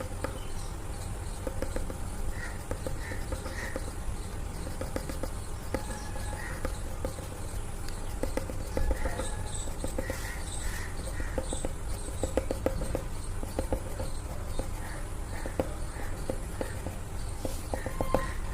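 Graphite pencil tapping and flicking in quick short strokes on paper while drawing fine hair, giving runs of rapid dry clicks like a woodpecker's drumming. A steady low hum lies underneath.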